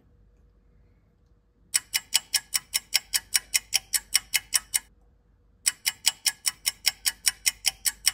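Clock ticking, quick and even at about six ticks a second, in two runs with a short break between.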